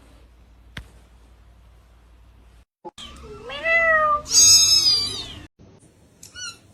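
A kitten meowing: a long, loud meow about halfway through that climbs high and then falls away, then a short meow near the end.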